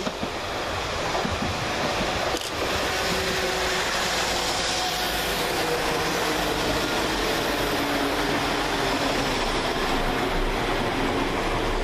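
A Class 172 diesel multiple unit runs past at close range: a steady rumble of its engines and wheels on the rails, with a faint engine whine. There is a single knock a little over two seconds in.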